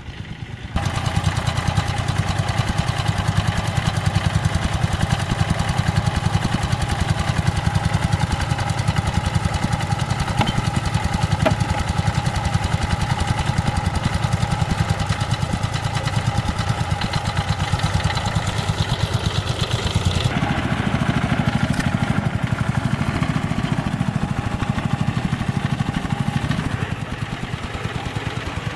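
A small engine running steadily with a fast, even pulse. About two-thirds of the way through its sound deepens and loses its higher tones, and it eases off slightly near the end.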